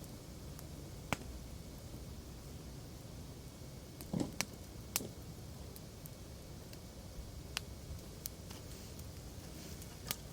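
Wood campfire crackling: scattered sharp pops, a few close together around the middle, over a low steady sound of the fire burning.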